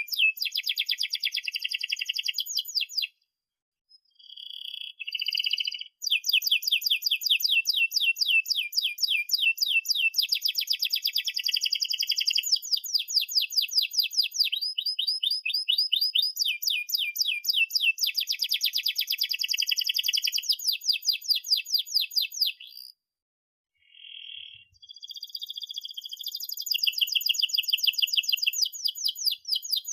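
Domestic canary singing long rolling trills of rapid, evenly repeated high chirps, phrase after phrase, with two short pauses: a few seconds in and about three-quarters of the way through.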